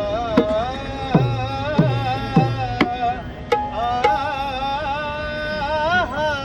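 Devotional bhajan music. A hand drum plays about five deep strokes in the first three seconds, each sliding down in pitch, under a held melodic line. From about four seconds in, that line wavers and bends.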